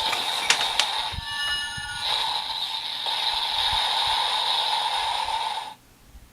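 Kamen Rider Build Evolt Driver toy belt playing its electronic sound effects through its small speaker. There are a couple of clicks, then a short run of beeping tones, then a steady electronic hiss with a held tone that cuts off sharply near the end.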